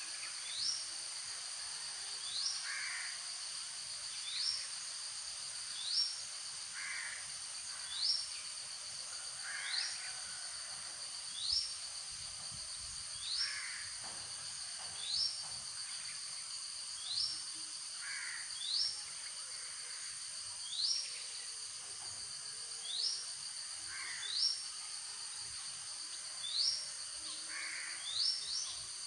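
A bird calling over and over, a short rising note about every two seconds, over a steady high-pitched insect drone.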